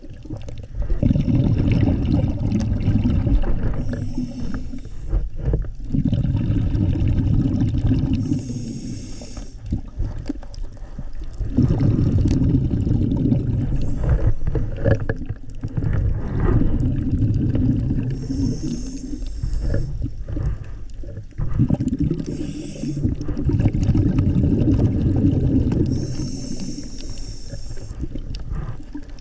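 Scuba diver breathing through a regulator underwater: a short hiss on each inhale, then a long rumbling burble of exhaled bubbles, repeating about every five seconds.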